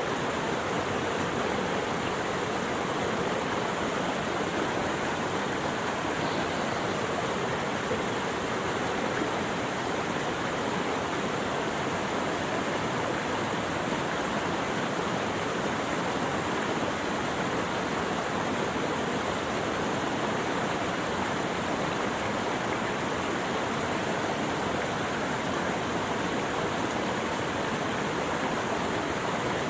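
Running water rushing steadily and evenly, without pauses or changes.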